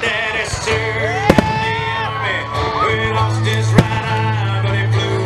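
Fireworks shells bursting in the sky with sharp bangs, two close together just over a second in and another near four seconds, over music played loudly with the show.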